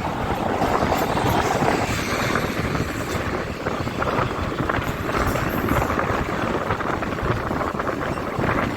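Kolkata suburban local train running along the track: a steady rumble with fine rattling and clicking from the wheels and carriages.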